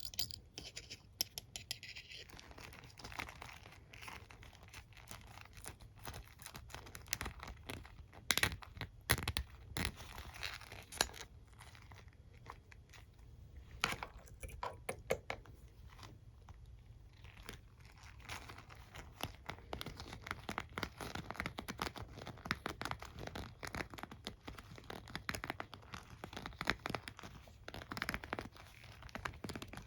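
Close-up hairbrush being touched and scratched by hand: quick irregular clicks and scratchy rustles, busiest a third of the way in and sparser a little later.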